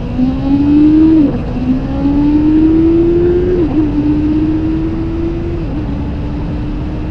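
Kawasaki Ninja 500's parallel-twin engine running through a cheap JFG Racing slip-on exhaust, accelerating hard. The pitch climbs and drops sharply at each of three upshifts, then holds steady.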